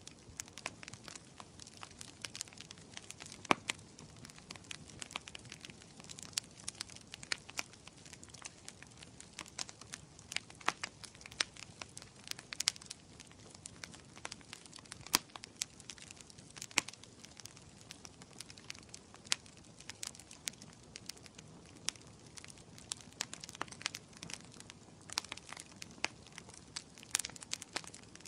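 Wood fire crackling in a fireplace: a soft, steady hiss with frequent sharp pops and snaps at irregular intervals.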